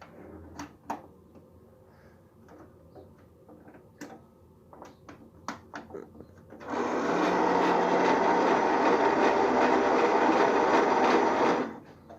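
1969 Eldon Poweride electric ride-on toy car's drive motor and gears running, in reverse. A few light clicks come first; about seven seconds in the motor starts, runs steadily for about five seconds, then cuts off.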